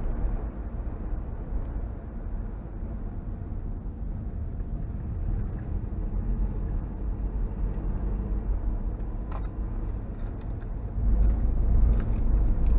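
Steady low rumble of a vehicle on the move, heard from inside the cab, with a few faint clicks and the rumble growing louder near the end.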